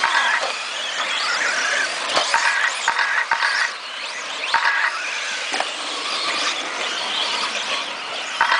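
Several electric stock-class RC stadium trucks racing, their motors whining high and sliding up and down in pitch as they speed up and slow. Several short steady beeps sound through it.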